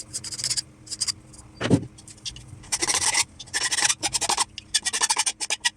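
Hand file rasping across the cut edge of a 3-inch ABS plastic pipe elbow in quick, uneven back-and-forth strokes, deburring it, with one duller knock among them.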